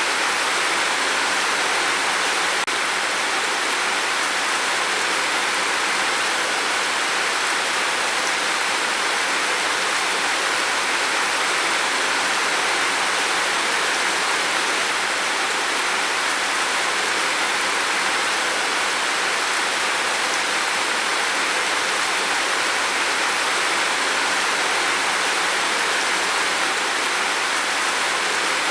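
Heavy rain falling on a roof, a steady, even hiss of water that never lets up.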